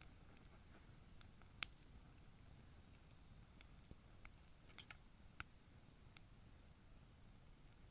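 Small wood bonfire crackling quietly, with scattered sharp pops at irregular moments, one louder pop about a second and a half in.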